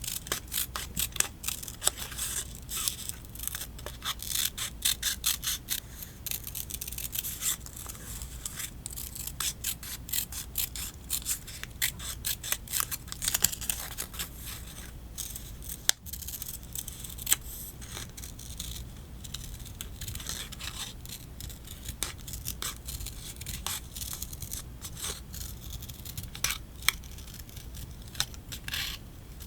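Scissors cutting paper in many quick snips, dense and rapid for the first dozen seconds and then more spaced out, with light paper rustling between cuts.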